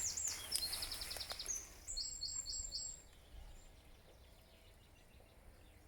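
Songbird singing: a few phrases of repeated high notes, including a quick trill, over about the first three seconds.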